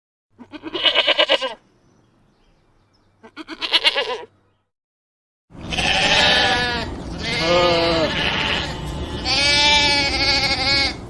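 Sheep bleating: two short quavering bleats, then from about halfway a longer run of several bleats over a steady background noise.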